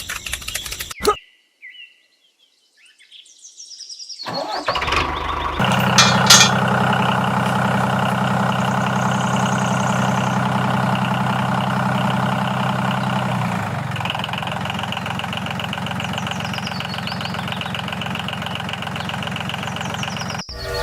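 An engine starts up about five seconds in, after a short near-silent pause, and then runs steadily at idle until it cuts off just before the end, its tone shifting slightly about fourteen seconds in.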